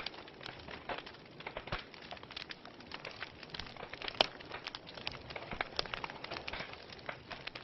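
Wood fire burning in a fireplace, crackling and popping irregularly over a soft hiss, with one sharper pop about four seconds in.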